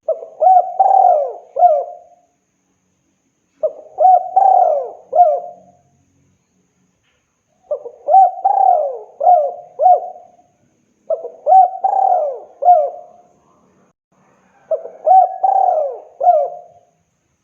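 Spotted dove (tekukur) cooing: five phrases of about four notes each, one every three and a half seconds or so. It is a male's call to a female.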